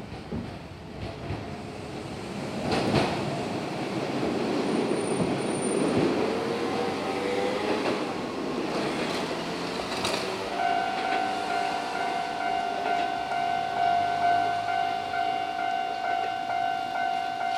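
Keio Line electric train passing through the station, wheels rumbling and clacking on the rails. About ten seconds in, a steady high ringing tone starts and keeps going.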